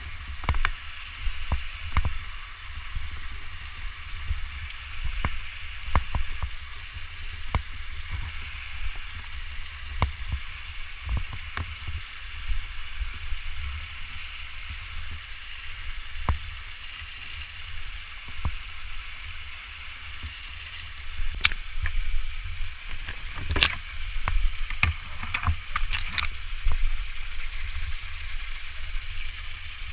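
Rushing waterfall water as a steady hiss with a low rumble beneath it, broken by scattered sharp clicks and knocks that come thicker and louder about two-thirds of the way in.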